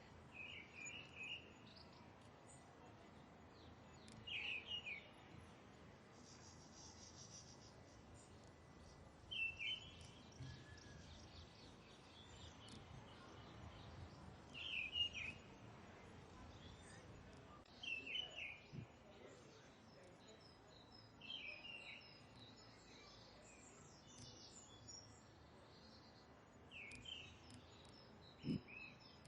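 A bird calling, one short call repeated about every three to four seconds, with other birds chirping higher and quicker in the second half, all faint over a low outdoor background.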